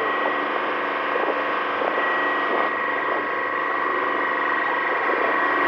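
Tour boat's engine running steadily: an even drone under a constant hiss.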